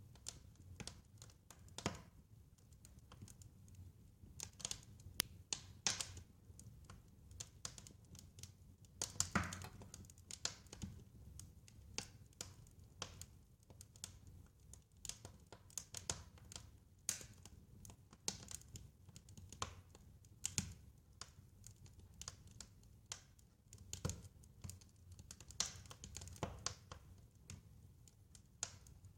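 Wood fire crackling: irregular sharp pops and snaps, sometimes several a second, over a low steady rumble of the flames. A few pops stand out louder, about nine seconds in and again near the end.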